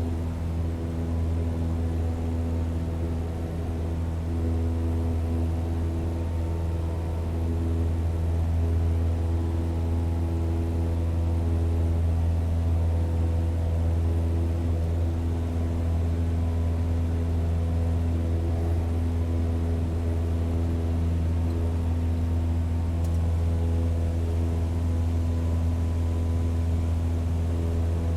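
Propeller aircraft engine droning at a steady pitch during take-off: a deep hum with steady higher tones above it, growing a little louder about eight seconds in.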